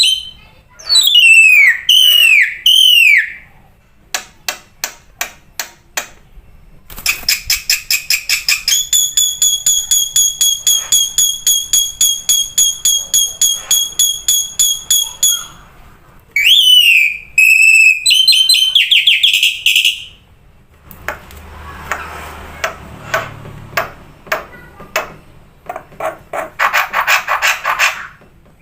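Black-winged myna (jalak putih) singing a varied song. It opens with falling whistles and a run of clicks, moves into a long, even series of quick ringing notes at about five a second, then gives more whistles and ends in a harsh, scratchy chatter.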